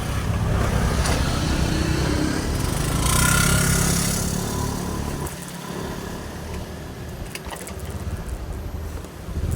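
Motorcycle engine running while riding, with a louder rush about three seconds in that eases off after about five seconds.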